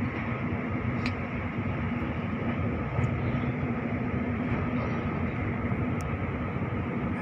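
Electric suburban passenger train running at speed, heard from inside the carriage: a steady rumble of wheels on rails with a low steady hum, and a few faint clicks.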